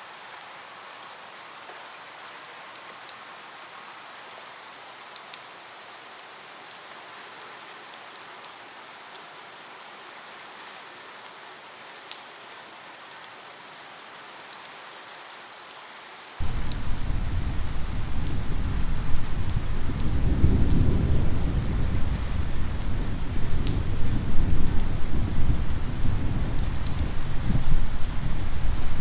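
Steady rain with scattered drop ticks; a bit over halfway through, a deep rumble of thunder comes in suddenly and keeps rolling, much louder than the rain.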